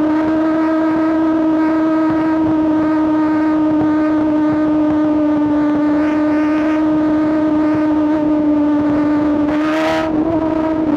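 2024 BMW S1000RR's inline-four engine running at a steady, high pitch under constant throttle. Near the end a short rush of noise breaks in, and the pitch then drops slightly.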